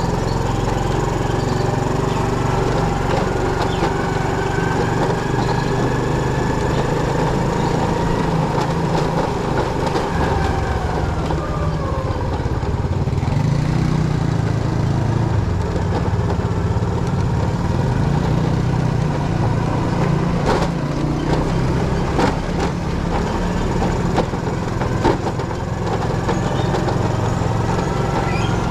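Motorcycle engine running while riding, its pitch rising and falling with the revs, with a few sharp knocks in the second half.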